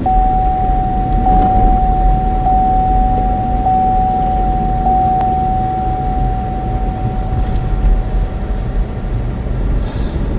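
Car cabin road noise while driving: a steady low rumble. Over it a single steady high tone sounds for about eight seconds, then fades out, with faint clicks on it about every second.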